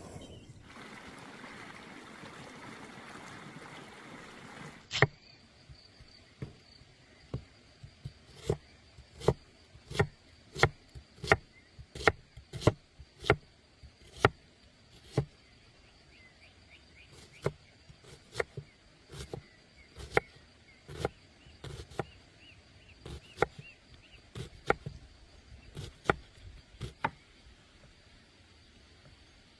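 A knife chopping on a cutting board in slow, even strokes, about three every two seconds, with a short pause partway through. Before the chopping starts there are a few seconds of steady hiss.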